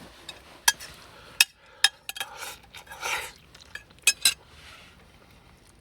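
Eating utensils clicking sharply against a dish or pot several times, with two soft hissing sounds in between.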